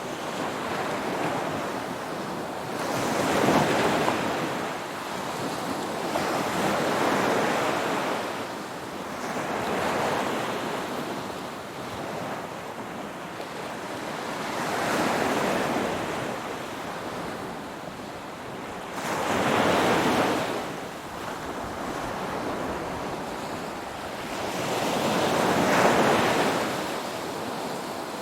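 Ocean waves breaking and washing in, rising and falling six times, a few seconds apart, with a quieter wash between.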